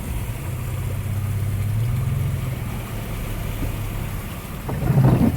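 Toyota FJ Cruiser's V6 engine running low and steady while driving through floodwater, its note swelling slightly about two seconds in and easing off. There is a louder burst of noise near the end.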